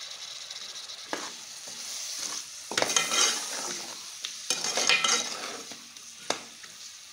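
Chopped tomatoes and green chillies sizzling in hot oil and masala in a steel pan as a perforated metal spatula stirs them. The spatula scrapes the pan, with two louder spells of scraping and sizzle near the middle and three sharp clinks of metal on metal.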